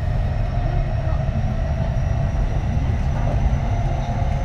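Kintetsu 3220 series electric train running steadily, heard from inside the car. There is a strong low rumble of wheels on rail and a faint, steady whine from the Hitachi IGBT traction inverter and motors.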